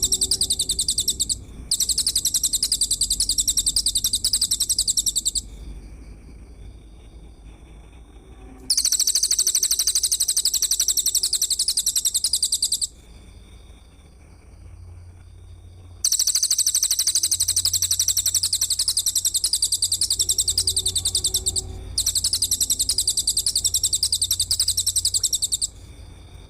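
Bird-training (masteran) recording of a songbird's rapid, high-pitched chattering trill. It comes in repeated bursts of several seconds each with short pauses between, over a low steady hum.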